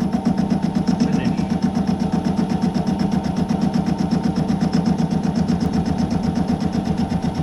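Myford lathe running under a roughing cut on an aluminium workpiece, the tool taking an interrupted cut, with a rapid, even pulsing that does not let up.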